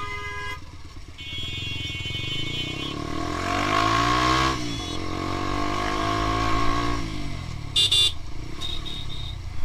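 A motorcycle engine passes close by, growing louder to a peak about halfway through and then fading, its pitch bending as it goes past. Vehicle horns sound briefly at the start and again for a couple of seconds soon after.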